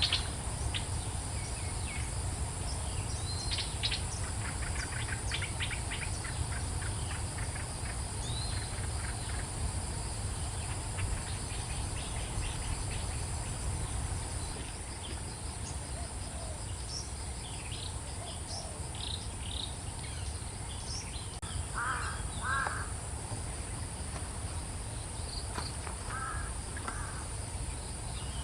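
Assorted wild birds giving short, scattered chirps and calls over a steady high insect drone, with a constant low rumble underneath.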